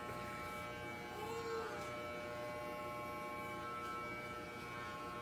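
Electric hair clippers buzzing steadily as they shave a head.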